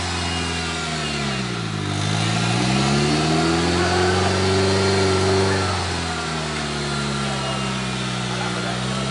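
Off-road 4x4's engine revving while the car is stuck: the pitch sags about two seconds in, climbs and holds high for a few seconds, then drops back to a steady lower speed.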